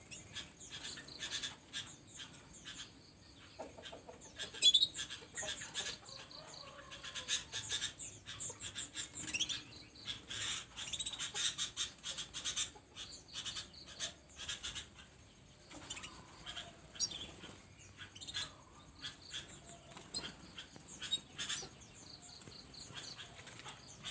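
Many small aviary birds chirping and twittering continuously, with many short overlapping calls. One louder sound stands out about five seconds in.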